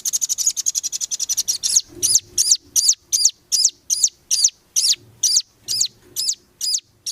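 A songbird singing a fast, high trill that gives way, about two seconds in, to a string of loud, evenly repeated sweeping whistled notes, roughly two to three a second.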